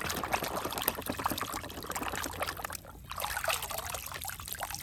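Water trickling and pouring, with small splashes and light knocks, as muddy toy vehicles are rinsed clean.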